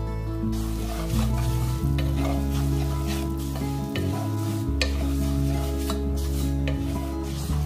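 Vermicelli sizzling in hot butter and oil in a nonstick frying pan while a wooden spatula stirs it, with short scrapes and taps against the pan. The sizzling picks up about half a second in. Background music with sustained chords plays underneath.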